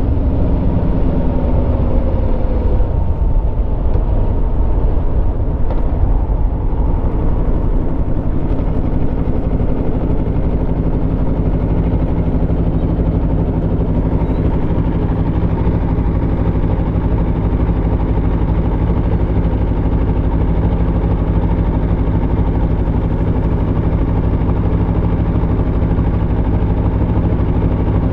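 Aprilia Tuono V4's V4 engine, its pitch falling as the revs drop over the first three seconds, then running at a steady, unchanging note for the rest.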